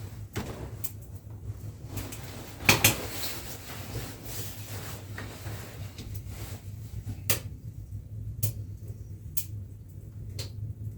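Scattered knocks and light clatter of objects being handled, the loudest about three seconds in, over a steady low hum.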